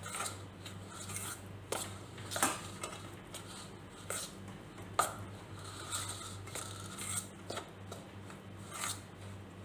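A spoon scraping and knocking against a vessel while stirring rice flour and hot water into a dough, in irregular strokes over a low steady hum.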